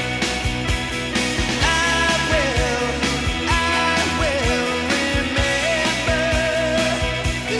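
Rock song playing with a steady drum beat and sustained bass, and a lead melody line that slides and bends in pitch above it.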